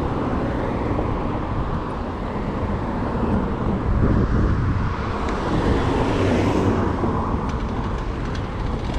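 Road traffic noise and low rumble, steady throughout, with a vehicle swelling past around the middle.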